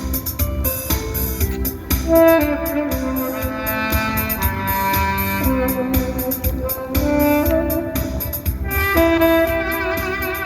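Saxophone playing a slow melody of long held notes over a backing track with a steady beat.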